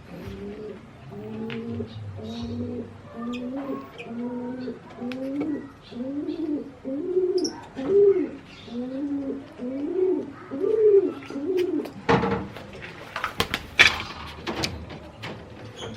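Domestic pigeon cooing: a rhythmic run of about a dozen coos, each note rising and falling, growing louder as it goes. Near the end the cooing gives way to a few seconds of sharp knocks and rustling.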